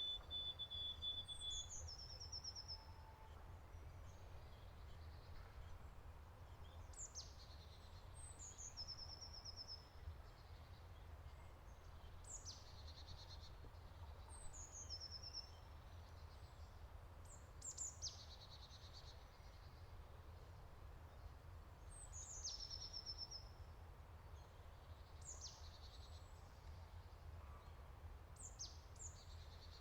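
Songbirds singing: short, high, thin phrases, each a quick downward slur running into a fast trill, repeated every few seconds over a faint, steady low rumble.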